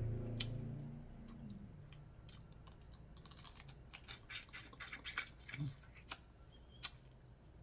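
Crab shells cracking and snapping while seafood is being eaten: a run of short, sharp clicks, densest from about three to seven seconds in. Before it, a low hum fades out over the first second and a half.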